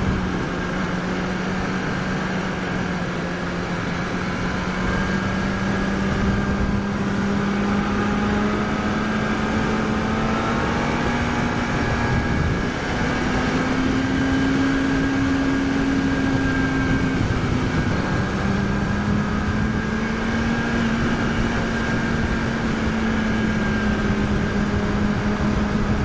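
2006 Kawasaki ZX-6R 636's inline-four engine running at steady speed through canyon curves, heard from on the bike over a steady rush of wind. Its note rises in pitch about halfway through and settles back lower a few seconds later.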